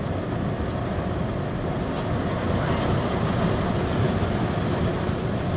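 Heavy thunderstorm rain drumming steadily on a car's roof and windows, heard from inside the cabin as a dense, low noise.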